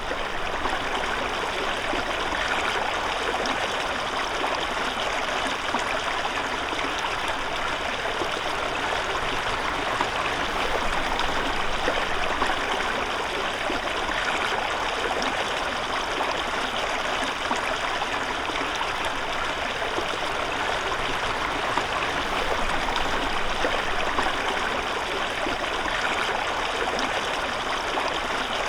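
Stream of water flowing steadily, a continuous rushing with no breaks.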